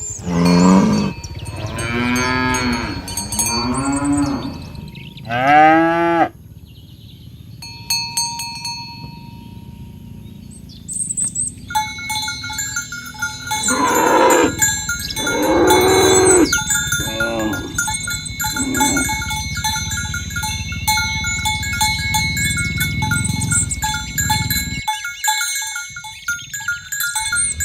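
Cattle mooing: several long calls in the first six seconds, then more around the middle. From about halfway in, bells ring steadily under the calls.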